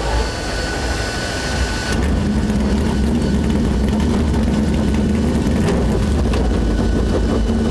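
Engine noise: a steady drone that gets louder about two seconds in and then holds.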